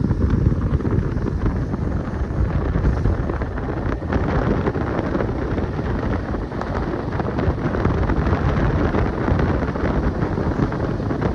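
Heavy wind buffeting the microphone of a moving motorcycle, a steady rumble that cuts off suddenly just after the end.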